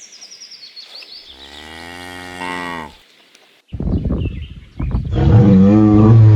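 Bull bellowing: a long, low moo from about one to three seconds in, then after a brief gap a louder, rougher bellow that builds from about four seconds in and is still going at the end.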